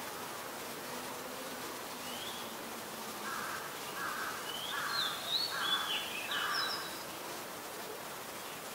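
A bird calling in the middle: about five harsh, chattering notes run together with short whistled slurs above them, over a steady hiss.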